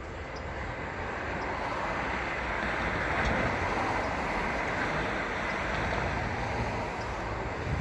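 Drill rig truck's engine and machinery running, a steady heavy noise that grows louder over the first three seconds and then holds.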